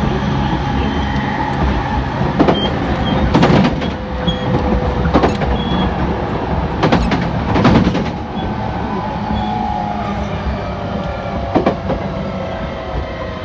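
E231 series electric commuter train standing at a station platform, with a steady electric hum and rumble from its equipment. Several sharp knocks and clacks sound through it, the loudest around the middle.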